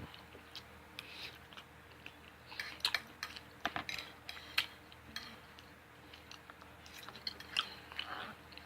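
A person chewing food, with irregular small mouth clicks and smacks.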